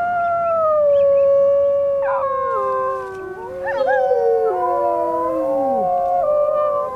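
A pack of wolves howling in chorus: several long howls overlap at different pitches, and one slides steeply down near the end.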